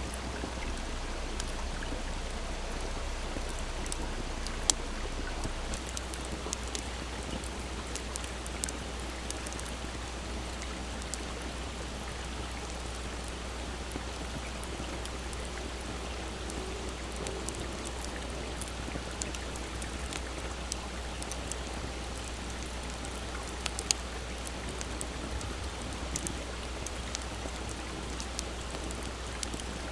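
Steady rush of a small babbling stream with a campfire crackling over it, scattered sharp pops, one louder about five seconds in and another near the end.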